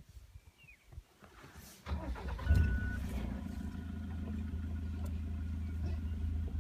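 Safari vehicle's engine starting about two seconds in, then idling steadily, with a brief high tone as it catches.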